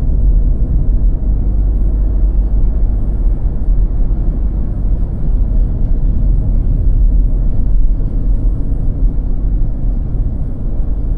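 Steady low rumble of a car driving: engine and tyre noise, with no separate events.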